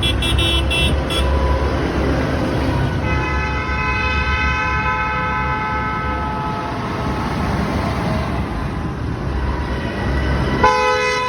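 Vehicle horns honking over the low rumble of tractor engines. A quick run of short high beeps comes right at the start, then a long horn blast lasting several seconds, and another horn sounds near the end.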